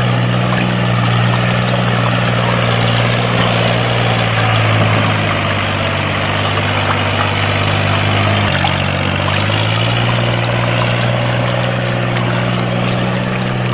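Small electric motor of a miniature DIY water pump running with a steady hum, with water pouring and splashing. The hum drops in pitch about eight and a half seconds in and slowly climbs back.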